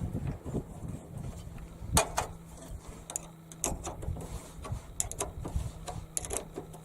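Wrench working on a battery cable terminal: irregular metallic clicks and knocks, the loudest about two seconds in, over a faint steady hum.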